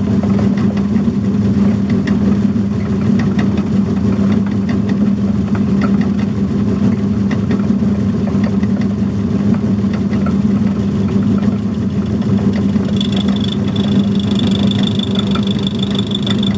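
Metalworking lathe running steadily with its motor and drive hum, turning a thick steel plate. A thin high whine from the cut joins about three-quarters of the way through.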